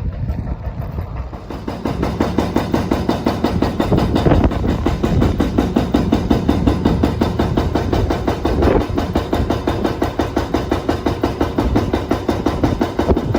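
A small engine running with a fast, even pulsing beat, growing louder about two seconds in.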